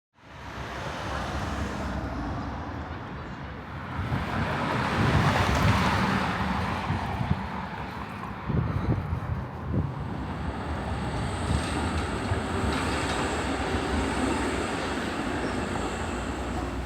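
Steady rumble of vehicle noise, loudest about five seconds in, with a few knocks and a thin high whine through the second half.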